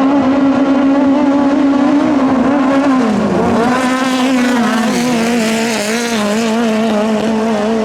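Racing boat engine running hard at high revs. Its pitch holds steady, dips briefly about three seconds in, recovers, then sags again a couple of seconds later.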